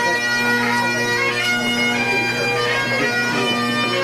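Bagpipes playing a marching tune over a steady, unbroken drone.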